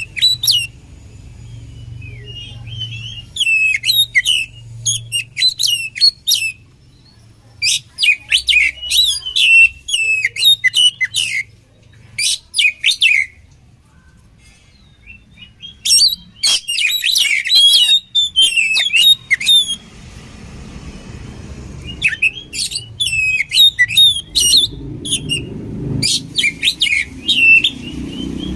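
Oriental magpie-robin (kacer) singing in bursts of rapid, varied high-pitched phrases, broken by pauses of a few seconds.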